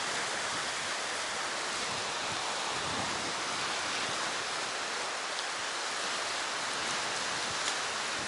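Sea surf washing on the shore, a steady even hiss without distinct wave breaks.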